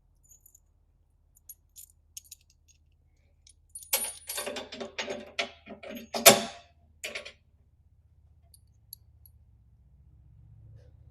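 Steel bolts and washers of a tooth-bar mounting kit clinking and jangling as they are handled, a cluster of rattling clinks in the middle with one loud clank about six seconds in.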